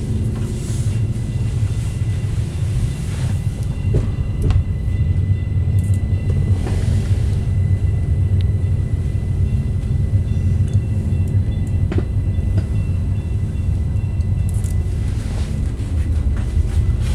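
Rhaetian Railway Bernina Express train heard from inside the carriage while running: a steady low rumble with a faint steady high whine and a few sharp clicks.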